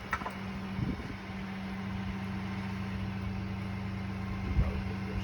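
A vehicle engine running steadily with a low, even hum. A few light knocks sound near the start and about four and a half seconds in.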